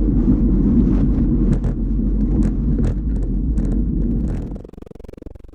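Steady low wind and road rumble from a camera on a moving bicycle, with a few light clicks scattered through it. The rumble cuts off abruptly near the end.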